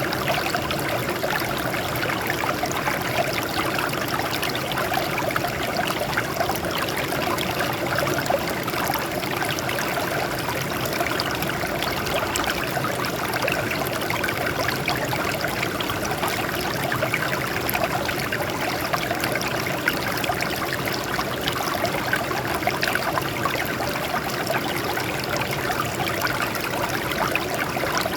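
Water flowing over and splashing off rocks in a steady, continuous babble with many small splashes.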